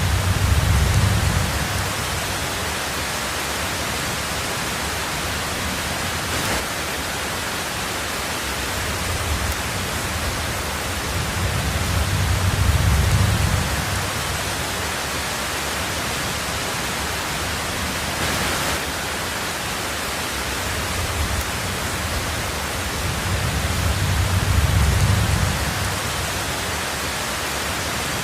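Heavy rain on a tin roof, a steady hiss, with a low rumble of thunder swelling and fading three times, about twelve seconds apart.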